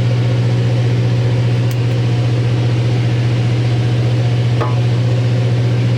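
Steady low hum of a running engine with a faint hiss over it, even in pitch and level, with one faint tick near the end.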